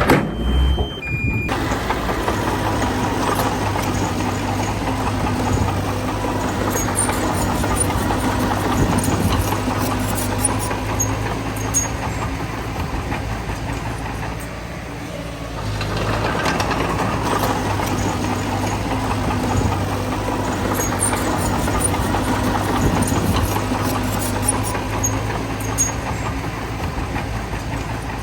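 Heavy diesel engine of earthmoving machinery running steadily under load, with faint metallic clicks and clanks; it eases off briefly about halfway through, then picks up again.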